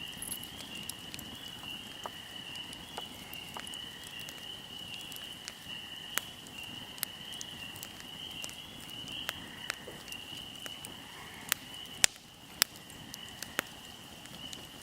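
Wood fire crackling, with irregular sharp pops and a few louder snaps near the end, over a steady high-pitched buzz.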